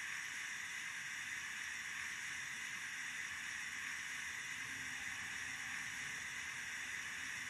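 Steady steam hiss from the DCC sound decoder's speaker in an Accurascale J68 model steam tank engine, with the model standing still.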